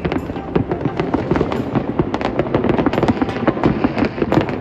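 Fireworks going off in quick succession: a dense, rapid crackle of many overlapping bangs with no pause.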